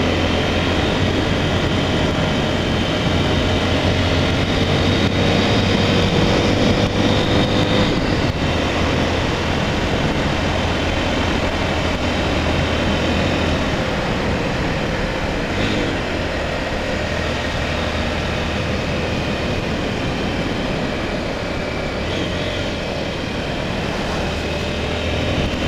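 Honda Tornado 250's single-cylinder engine running steadily under way, mixed with constant wind and road noise.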